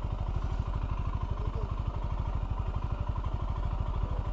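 Royal Enfield Himalayan's single-cylinder engine idling steadily just after being started, with an even, rapid low pulse from its firing strokes.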